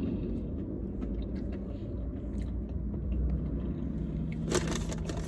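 Close-up chewing and eating noises with small clicks, and a brief run of crackles about four and a half seconds in, over a low steady rumble.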